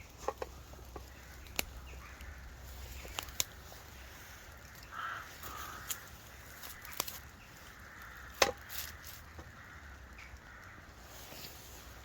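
Scattered clicks and knocks of camp cooking gear being handled as a pastry bake is put on to cook, the sharpest knock a little past the middle.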